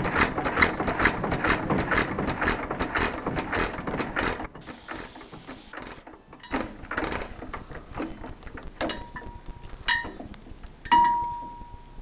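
1930 John Deere Model E hit-and-miss engine running with a steady clicking rhythm of about three beats a second. The sound drops away after about four seconds, leaving scattered clicks and a short metallic ring near the end.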